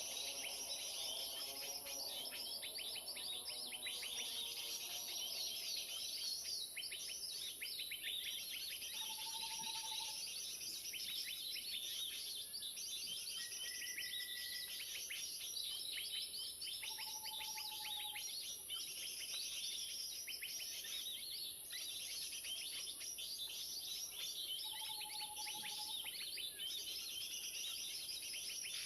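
Dense, continuous chattering and chirping of many small birds, the 'keributan' (commotion) lure recording played from an MP3 player to call birds in. A short clear whistle note sounds about every eight seconds, over a steady high-pitched drone.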